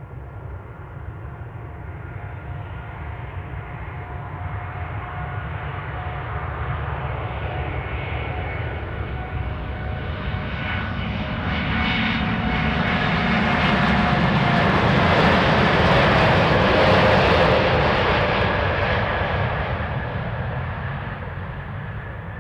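Jet airliner taking off, a Boeing 787-8 with Rolls-Royce Trent 1000 engines at takeoff thrust. It grows steadily louder with a whining tone over the roar, peaks about two-thirds of the way in, then fades as it passes.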